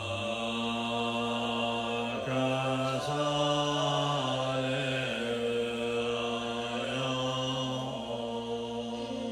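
A man's low voice chanting a mantra in long, held notes, stepping slowly between a few pitches.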